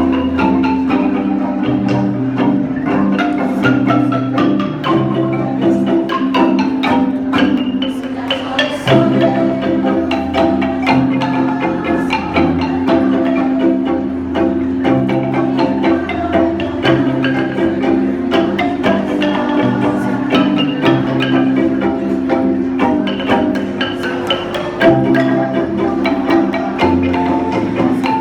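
Kolintang ensemble playing: wooden xylophone bars struck in quick, continuous strokes over a bass line that steps between notes.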